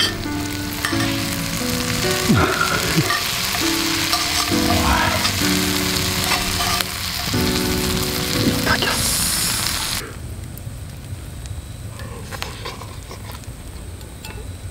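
French fries and melting cheese sizzling in hot oil in a skillet over a campfire, with the pan being stirred. The sizzle cuts off sharply about ten seconds in.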